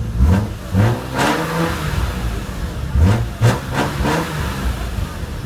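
BMW M3 engine idling through an aftermarket exhaust, blipped twice in quick clusters of about three sharp revs, each dropping back to a steady idle.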